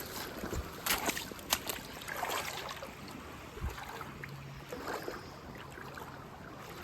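Creek water sloshing and splashing around waders as someone wades through the stream, with a few sharp knocks, the loudest about one and one-and-a-half seconds in.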